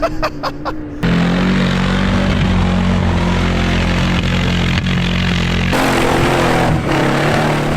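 Off-road vehicle engine running loud and steady under load on a steep dirt hill climb, starting abruptly about a second in.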